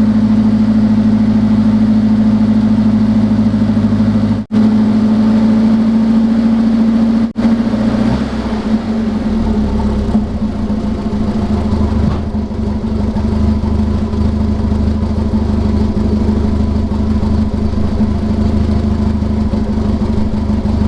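1982 Datsun 210's four-cylinder engine running steadily at idle after an alternator replacement, with two momentary gaps in the sound. From about eight seconds in it settles to a lower, steady idle.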